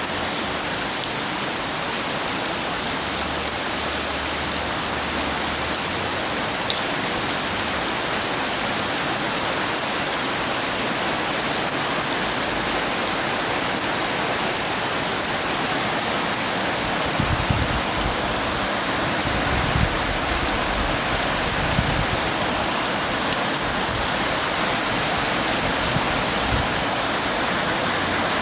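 Heavy rain falling steadily, a dense, even hiss. A few brief low thumps come about two-thirds of the way through.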